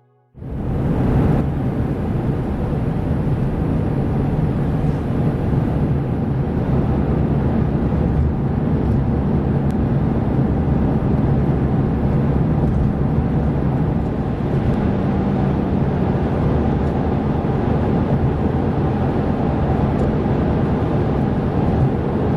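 Toyota Estima (50 series) minivan with its 3.5-litre 2GR-FE V6 driving at a steady speed: a constant engine drone mixed with road and wind noise, holding level with no revving.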